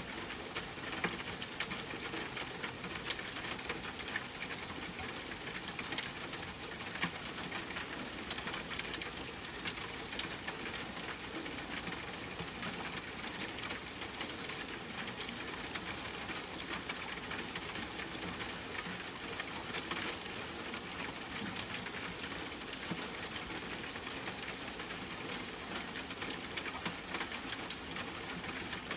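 Steady rain: a constant hiss with many separate drops ticking sharply throughout.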